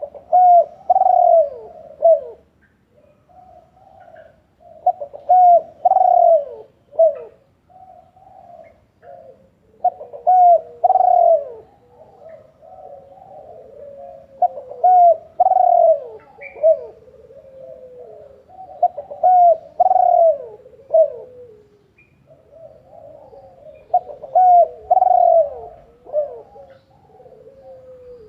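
A dove cooing, repeating a phrase of several low coos about every five seconds, with softer cooing in between.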